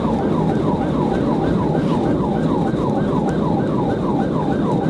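Police car siren on a fast yelp, rising and falling about four to five times a second, over the heavy rush of engine and road noise of a cruiser in a high-speed pursuit.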